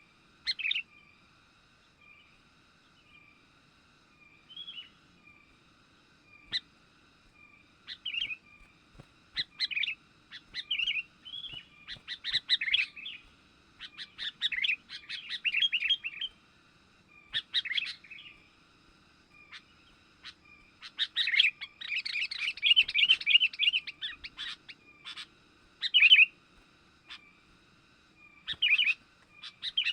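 Sooty-headed bulbul (kutilang) chirping in irregular bursts of quick, high notes, the longest and densest run coming a little past two-thirds of the way through. A faint call repeats about once a second underneath.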